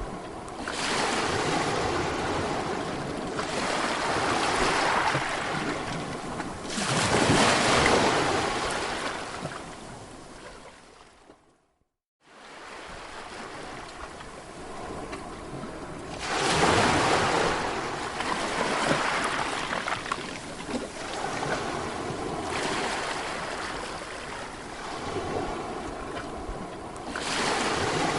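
Sea waves breaking and washing on a shore, rising and falling in surges every few seconds. They fade out to a moment of silence near the middle, then come back.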